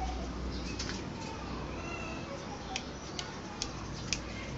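A pied starling (jalak suren) giving several sharp, separate clicks with a few faint whistled notes between them, over a steady low hum.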